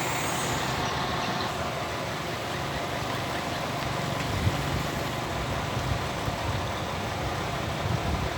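Excavator diesel engine running steadily, with a few brief knocks partway through.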